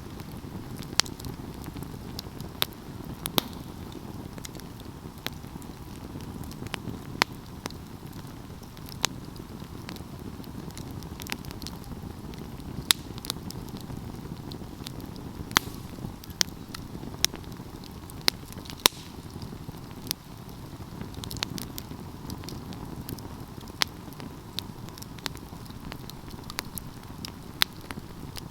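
Wood fire burning: a steady low rush of flames with irregular sharp crackles and pops of the burning logs, about one every second or two.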